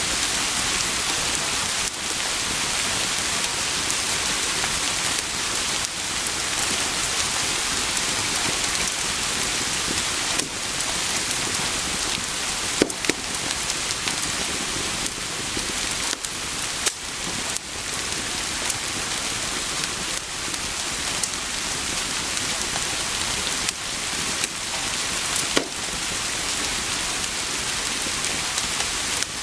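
Steady rain falling, with a few sharp clicks or crackles scattered through it.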